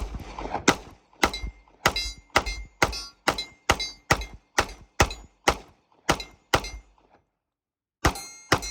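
FN 545 .45 ACP pistol fired in a steady string, about two shots a second, some fourteen shots, then after a pause of about a second two more shots near the end.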